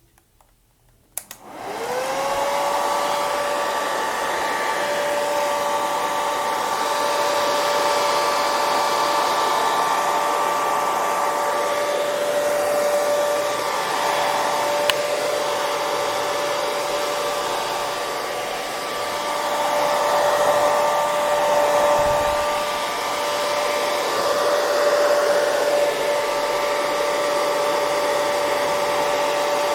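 Hair dryer switched on after a moment of near silence: a click about a second in, the motor's whine rising quickly as it spins up, then a steady blow of air with a constant high whine, swelling slightly now and then.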